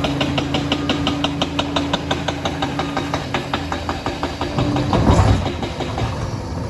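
Liebherr PR 746 crawler dozer at work: the diesel engine and drive run with a steady whine under a rapid, even clatter of the steel tracks. About five seconds in, a louder low rumble swells briefly.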